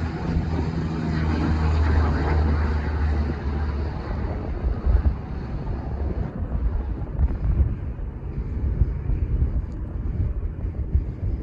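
Airplane engines droning with a steady low hum as an aircraft passes; the hum drops away about three and a half seconds in and the engine noise fades over the following seconds, leaving gusts of wind on the microphone.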